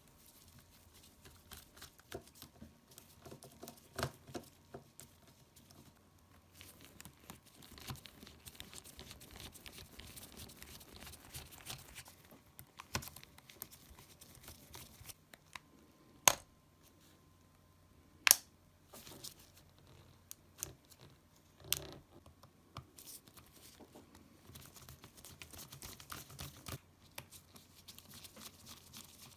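Hands working on a Nintendo Switch's small plastic and metal parts during disassembly: scratchy scraping and rustling with many small clicks, and three sharp clicks in the middle.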